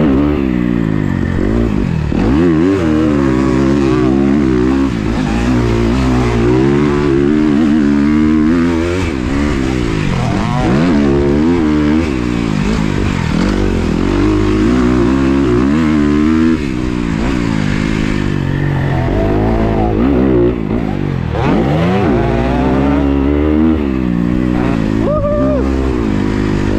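Motocross dirt bike engine revving hard and easing off again and again, its pitch climbing and dropping as the rider accelerates and shifts around the track.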